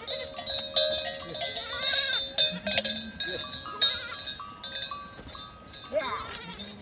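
Livestock bells on a flock of goats and sheep clanking irregularly, with a bleat about two seconds in and another near the end.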